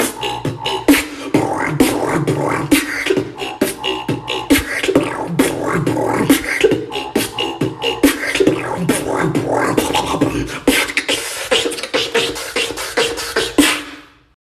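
Human beatboxing performed live from the mouth: a fast, dense run of percussive mouth clicks and snare-like hits layered over hummed, voiced tones and a low gliding bass line. It cuts off suddenly near the end.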